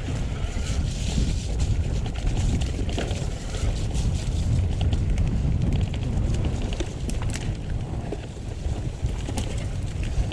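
Wind buffeting an action camera's microphone as a mountain bike is ridden down a wet trail, a steady low rumble broken by scattered clicks and rattles from the bike over rough ground.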